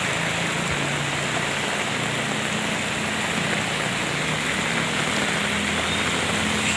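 Steady rain falling, with the low hum of an engine running underneath that grows a little louder near the end.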